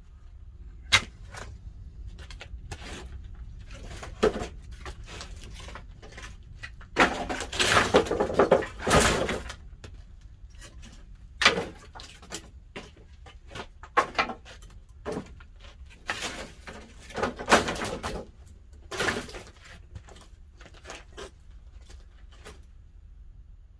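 Sharp cracks, knocks and clatter around a wood kiln fired with pine firewood, scattered through, with longer clattering stretches about a third of the way in and again about three-quarters through.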